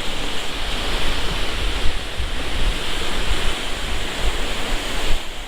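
Rough storm surf washing and crashing against a seawall, from Tropical Storm Lee passing offshore, with wind buffeting the microphone in a gusting low rumble.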